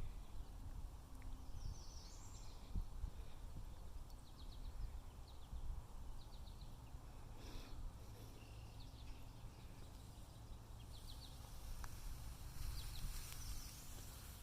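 Small birds chirping faintly in short quick series, with one higher upswept call about two seconds in, over a steady low rumble.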